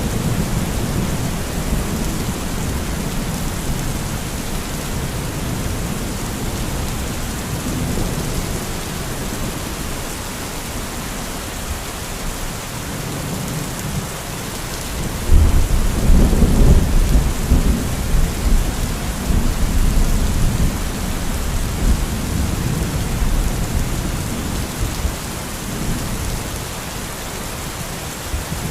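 Thunderstorm: steady heavy rain hissing, with rolling thunder rumbling low throughout and a louder clap about halfway through that rumbles on for several seconds before fading.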